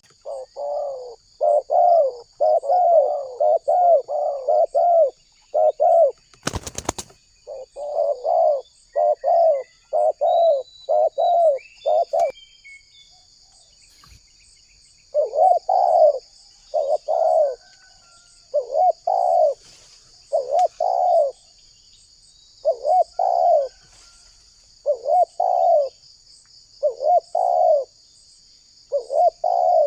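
Spotted dove cooing in long runs of quick, repeated rolling coos, pausing about halfway through before starting again. A steady high insect chirring runs underneath, with a few faint higher chirps from other birds in the pause and one short sharp knock about six seconds in.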